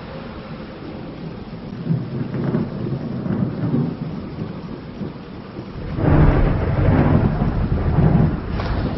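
Thunder rumbling over steady rain, with a louder, deeper roll of thunder starting about six seconds in.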